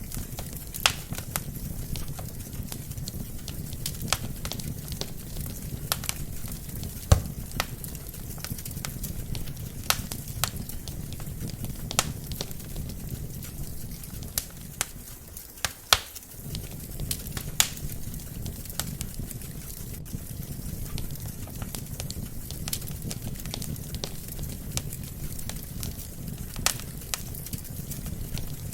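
Wood fire burning in a fireplace: irregular sharp crackles and pops from the burning logs over a low, steady hiss of flame.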